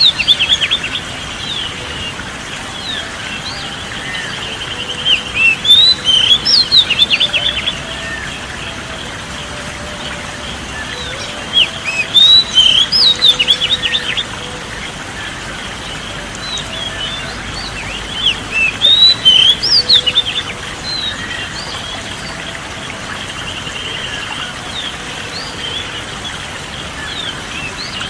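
Songbirds chirping in quick, loud bouts of short whistles and trills, separated by a few seconds of steady background hiss with fainter calls.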